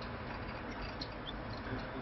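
Faint scattered light clicks and splashy ticks from a canary bathing, with one brief high chirp a little past the middle, over a steady hiss.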